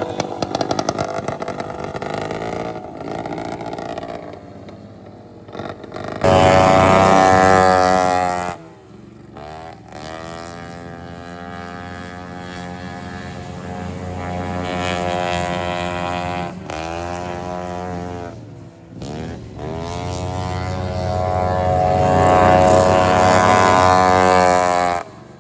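Racing riding-lawnmower engines running hard, their pitch dropping and climbing again several times as they shift gears and throttle up. The loudness swells and falls as the mowers pass.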